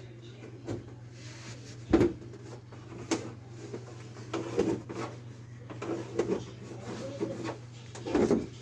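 Carpentry work: irregular knocks and short scrapes of wood being handled and worked, the sharpest knock about two seconds in, over a steady low hum.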